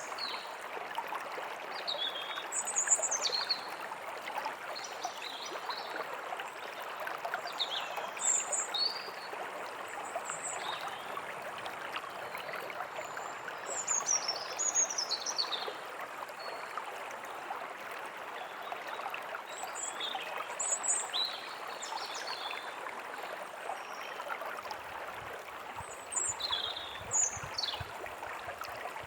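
A small stream flowing steadily, with birds chirping and calling now and then above it.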